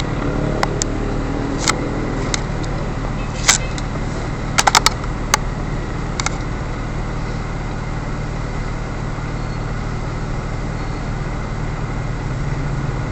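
Vehicle engine idling in stopped traffic: a steady low hum. Several sharp clicks sound in the first half, including a quick run of four about a third of the way in.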